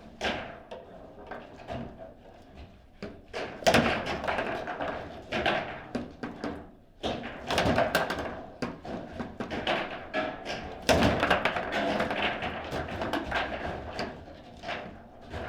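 Table football rally: the ball struck by the rod-mounted players and knocking off the table walls, with rapid, irregular knocks and clatters of the rods. The hardest clusters of hits come about 4, 8 and 11 seconds in.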